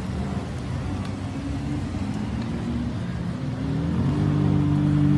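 Supercar engines running at low speed as the cars drive slowly past. About three and a half seconds in, an engine revs up as the red Lamborghini Aventador approaches: its note rises and gets louder.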